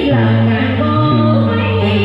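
Cải lương music played on guitar, with held notes that slide and bend down into new pitches.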